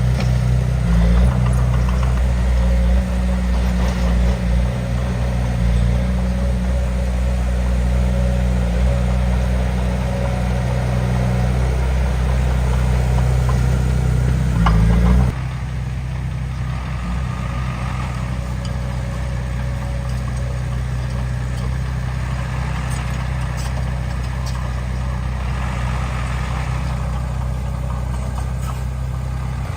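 Heavy diesel engine of earthmoving equipment running steadily close by. About halfway through the sound drops abruptly to a quieter, steady engine note.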